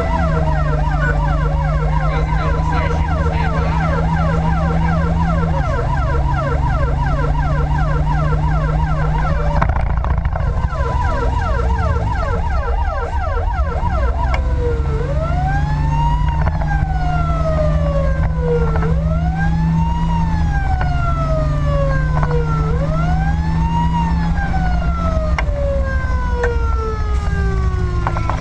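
Fire engine's electronic siren, in a fast yelp for roughly the first nine seconds, then switching to a slow wail that rises and falls about every four seconds, over the steady drone of the truck's engine.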